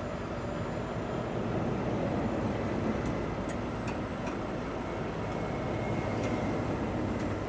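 Steady rumble of heavy vehicle noise, with a few faint sharp ticks about three to four seconds in.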